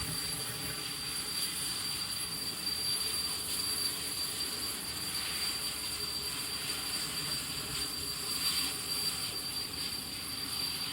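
Turbomeca Marbore II turbojet on a jet dryer truck running steadily: a constant high whine over an even rush of noise.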